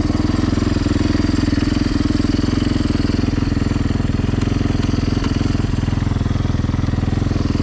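Freshly rebuilt Yamaha YZ450F single-cylinder four-stroke dirt bike engine running at a steady, even speed, with no revving.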